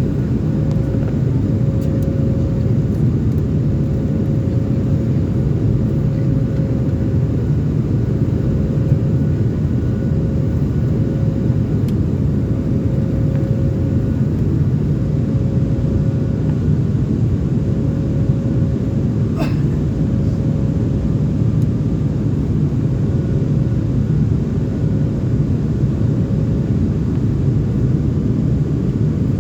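Airliner cabin noise at a window seat: a steady rumble of engines and airflow with a steady hum over it, and a brief click about two-thirds of the way through.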